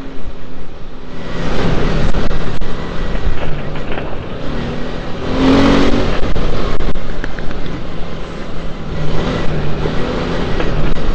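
Single-cylinder dirt bike engine running while being ridden along a rough dirt track, its note rising and falling with the throttle. Rushing wind noise on the microphone swells several times.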